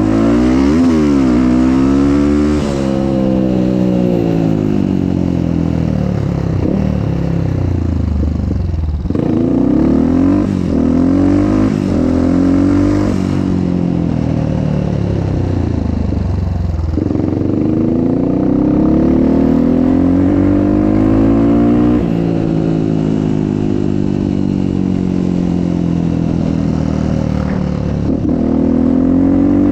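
Motocross motorcycle engine being ridden hard, revving up and dropping back several times, with long climbs in pitch as it accelerates through the gears and sudden falls when the throttle is shut.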